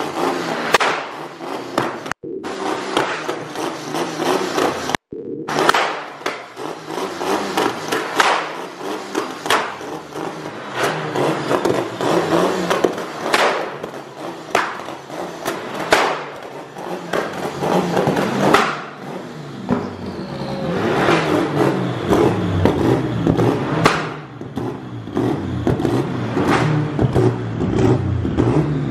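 Car engines running and revving, recorded loud and crackly, with two abrupt cuts near the start.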